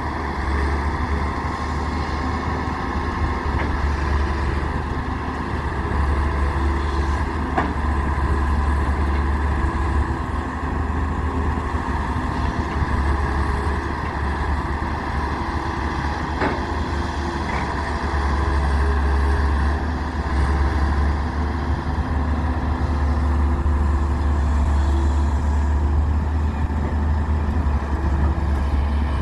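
Heavy diesel engine running steadily with a deep drone and a faint higher whine, with a couple of faint knocks.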